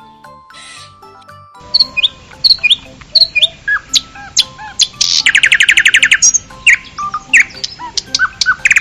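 A songbird singing: repeated sharp chirps and short downward-sweeping whistles, with a fast trill of about fifteen notes a second a little past halfway. Soft background music plays for the first second and a half before the birdsong starts.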